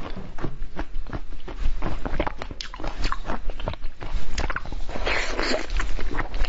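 Close-miked biting and chewing of a translucent red corn-cob-shaped candy: many short, wet mouth clicks, with a denser, noisier stretch of biting about five seconds in.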